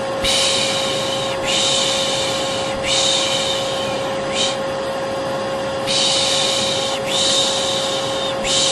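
Vacuum cleaner motor running with a steady drone and hum, overlaid by a person's repeated long 'shhh' shushes, each about a second long with short gaps, lulling a baby to sleep.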